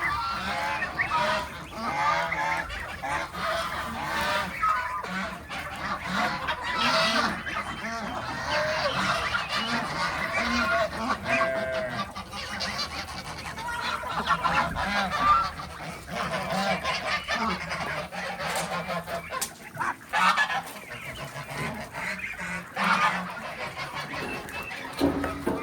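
A flock of farm geese honking, many overlapping calls going on without a break.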